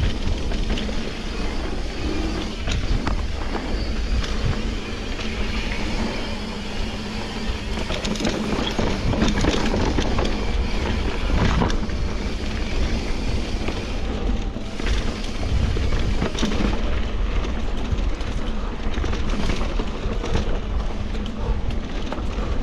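Steady wind rush and road noise of a moving ride, heavy low rumble on the microphone, with scattered small ticks and rattles.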